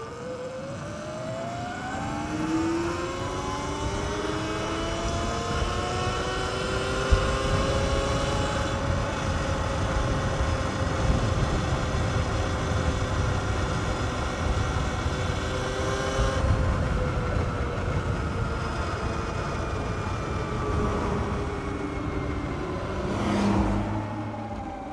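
Sur-Ron X electric dirt bike's motor whine, rising in pitch as the bike speeds up over several seconds, holding steady, then falling as it slows, over low wind rumble on the microphone.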